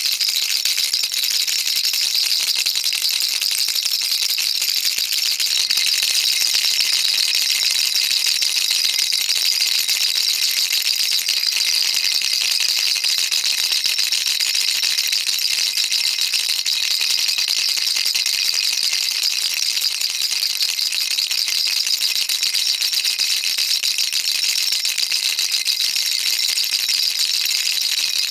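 Baby rattle shaken without a break, a dense, steady, high-pitched rattle.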